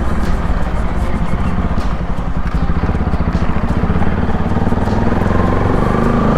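Bajaj Pulsar NS200's single-cylinder engine running steadily under way through an aftermarket Akrapovic full-system exhaust.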